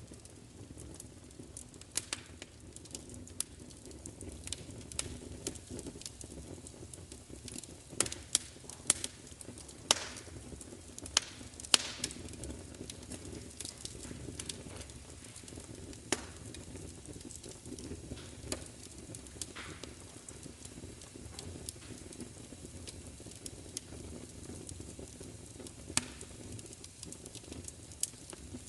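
Wood fire crackling: a steady low rumble of flames with irregular sharp pops and snaps, several louder pops bunched in the middle and one near the end.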